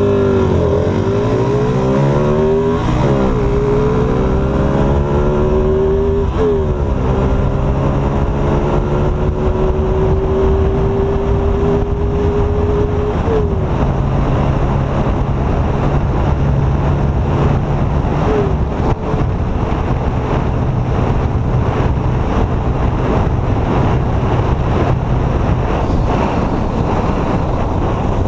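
Motorcycle engine at full throttle from a standing start, its pitch climbing and dropping back at each of four upshifts over the first twenty seconds. It then holds steady at high speed.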